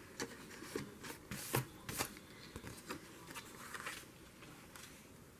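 Faint handling of paper: light rustles and a scattering of small clicks and taps, thinning out over the last second or so.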